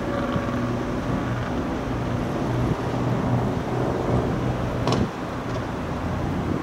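A large engine running steadily, a low hum under a noisy wash, with one sharp clank about five seconds in.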